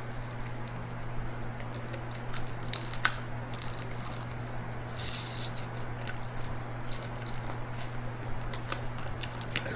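Close-miked eating of crispy fried chicken wing: scattered crunching bites and wet chewing, with a sharper crunch about three seconds in. A steady low hum lies under it.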